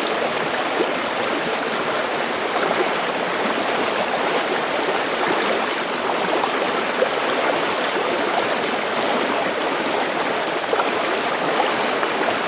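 A waterfall rushing, a constant even noise of falling water that holds steady throughout.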